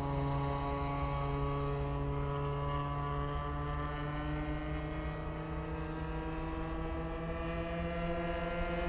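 Small gasoline engines of RC model warplanes in the air at full throttle, a steady drone whose pitch drifts slowly as the planes fly around the circuit.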